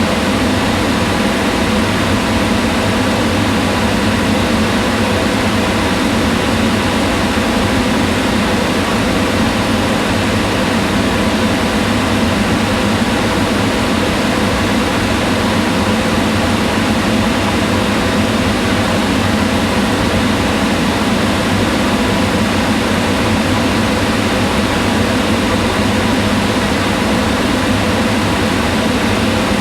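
Kitchen range hood fan running steadily: a constant rush of air with a low hum and faint steady tones, unchanging throughout.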